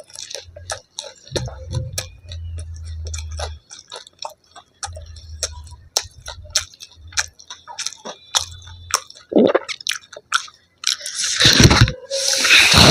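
A person chewing food close to the microphone, with many small wet clicks of the mouth and a louder crunching bite near the end.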